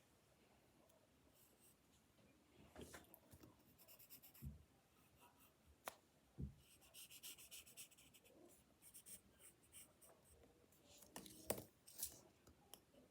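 Quiet drawing on paper: spurts of quick, scratchy pen strokes, with a few light knocks and a sharp tap of handling near the end.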